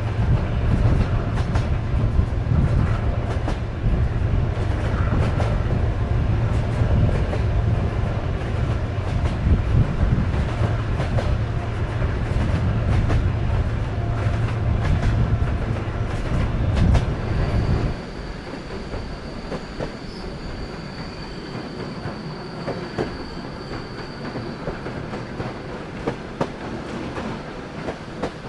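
Soviet-built sleeper train car running on the rails: a heavy low rumble with the clickety-clack of wheels over rail joints. About two-thirds of the way through, the rumble drops suddenly and sharply, leaving a quieter ride with a thin, high, steady whine.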